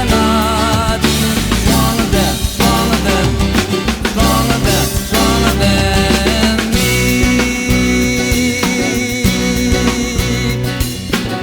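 Pop-rock band playing an instrumental passage: drum kit and bass under a wavering lead melody, with a long high note held through the second half.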